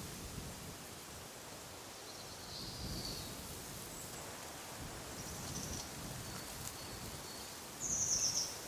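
Steady wind rustling through trees, with songbirds calling now and then: a faint high call about two and a half seconds in, and near the end a louder, quick run of high chirps that is the loudest sound.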